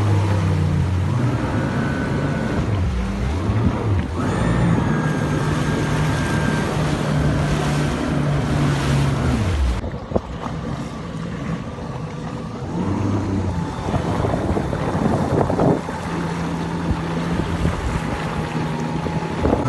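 Jet ski engine running over the sea, its pitch rising and falling as the throttle is worked, easing off about halfway through and then picking up again, with wind on the microphone.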